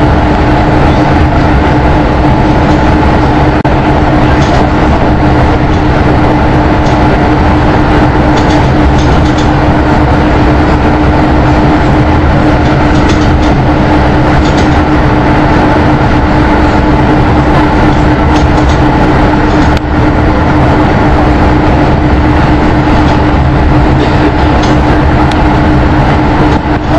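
Loud running noise of a PKP EN57 electric multiple unit at speed, heard from inside the carriage: a steady rumble of wheels on rail with a steady whine over it.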